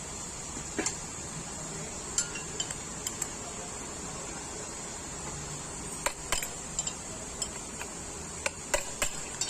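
Scattered metallic clinks and knocks of steel tools and differential parts being handled and set down, a few sharp taps at a time, with a louder cluster near the end.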